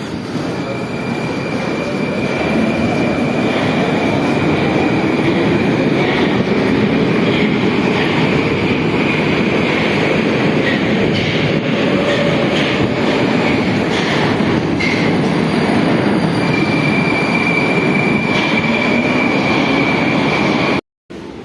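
Moscow metro train pulling away and picking up speed: the traction motors' whine rises in pitch over the first several seconds above the loud rumble of wheels on rails, with a steady high squeal from the wheels. The sound cuts off suddenly about a second before the end.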